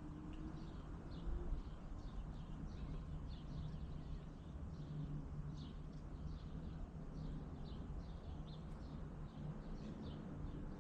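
A bird chirping repeatedly in short high calls, about two to three a second, over a low steady background hum.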